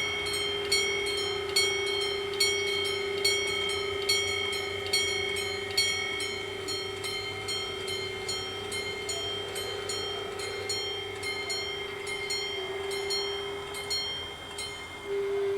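Italian level-crossing warning bells ringing: a steady ringing tone with a bright strike a little more than once a second. Near the end the strikes fade and the ringing cuts off abruptly.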